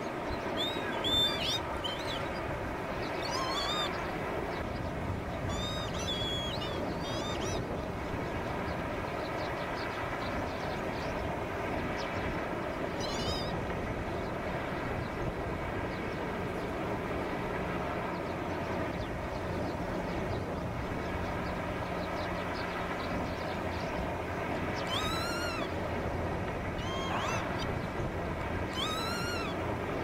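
A wild bird gives short chirps that rise and fall, singly or in quick pairs, every few seconds, over a steady droning hum made of many tones.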